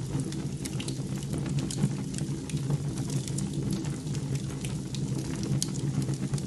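Wood fire crackling in a fireplace, with irregular sharp pops over a steady low hum.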